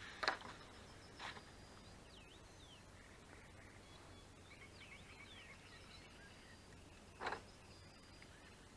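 Birds calling faintly: thin whistled notes that slide up and down. Three brief sharp sounds stand out, about a third of a second in, a second later, and near the end.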